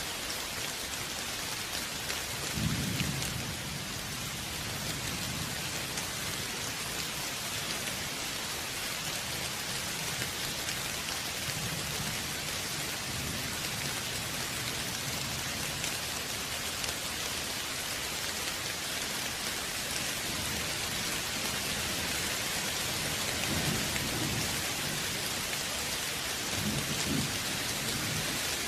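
Steady rain falling with a constant hiss, with several low rumbles of thunder, the strongest about three seconds in and again near the end.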